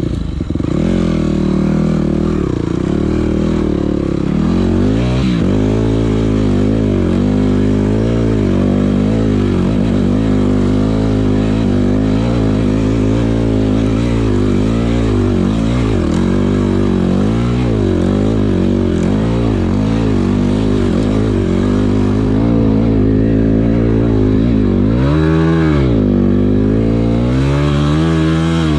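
Yamaha WR250F enduro motorcycle's single-cylinder four-stroke engine running under riding, its revs rising and falling continually, with a sharp drop and climb in revs near the end.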